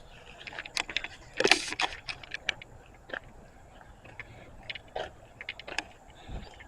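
Footsteps crunching and snapping through dry debris and brush, in irregular steps, with the loudest crunch about one and a half seconds in.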